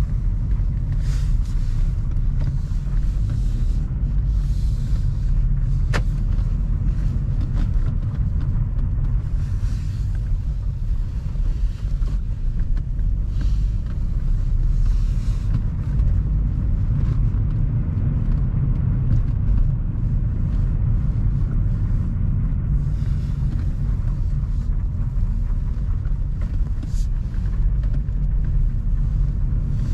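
Steady low rumble of a car, heard from inside it, with short rushes of hiss coming and going every few seconds and a single click about six seconds in.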